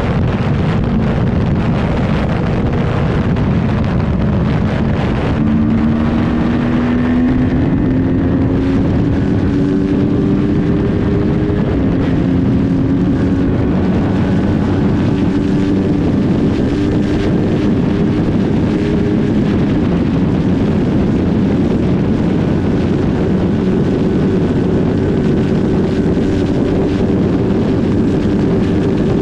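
Yamaha MT-03 parallel-twin engine at full throttle, pitch climbing steadily as the bike accelerates toward top speed, with heavy wind rush over the microphone. The pitch drops once about twelve seconds in at an upshift into sixth gear, then climbs slowly again.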